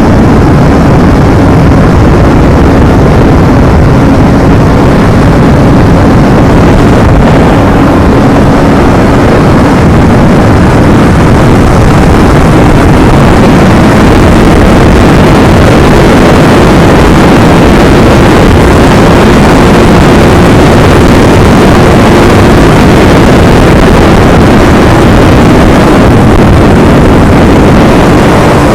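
Yamaha R25's 250 cc parallel-twin engine running at steady revs while the bike is ridden, with wind rushing over the microphone. The engine note edges up slightly about ten seconds in and then holds.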